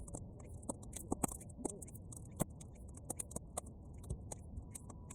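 Bonfire of half-dry weeds crackling, with irregular sharp pops and snaps, several a second, over a low steady rumble.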